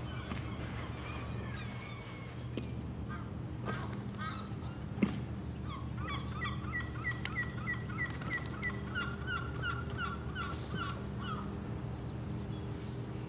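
Birds calling in long runs of short, quickly repeated notes over a steady low hum, with a single sharp knock about five seconds in.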